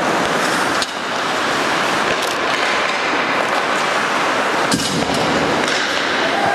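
Ice hockey game sound from the rink: a steady noise of play with two sharp knocks, about one second in and again near five seconds in.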